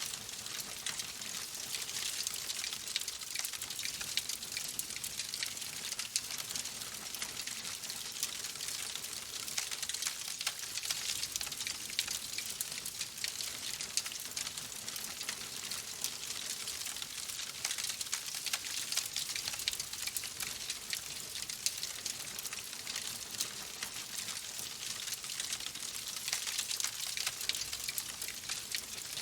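Wood fire crackling: a steady hiss with many small pops and snaps scattered throughout.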